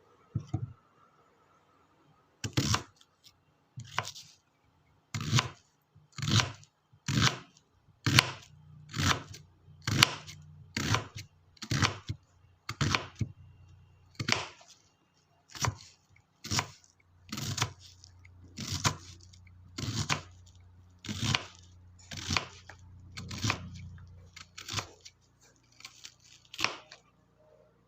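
Knife chopping or slicing vegetables on a cutting board, about one cut a second in a steady, unhurried rhythm.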